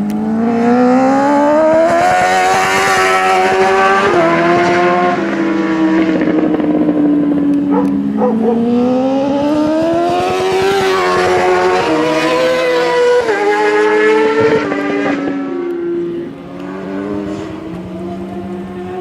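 Superbike racing motorcycle engines at high revs. The pitch climbs, drops in steps at gear changes, falls off, climbs again and shifts twice more, then settles lower near the end.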